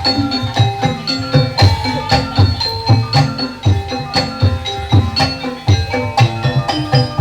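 Kuda lumping ensemble music: hand drums beat a steady, driving rhythm under ringing metallophone notes.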